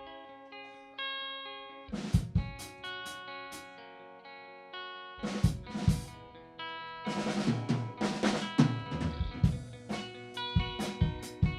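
Live rock band playing an instrumental passage: ringing guitar chords re-struck about once a second, then the drum kit and bass come in about two seconds in, with kick, snare and cymbal hits growing fuller from about halfway.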